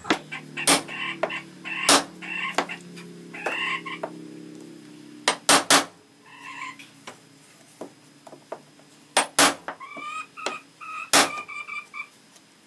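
Hammer striking a ball peen hammer held on a brad head, driving the brad flush into the walnut: about eight sharp metal-on-metal knocks at uneven intervals, some in quick pairs or threes. A low ringing follows the early strikes.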